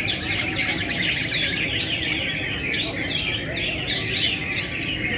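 Many caged songbirds chirping and singing at once, a dense overlapping chorus of quick high chirps and trills.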